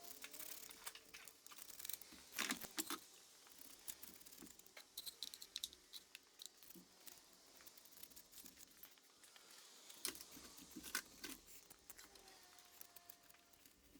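Faint, scattered clinks, taps and light rustling of hand tools and metal parts being handled, with a few louder clicks about two and a half seconds in and again near eleven seconds.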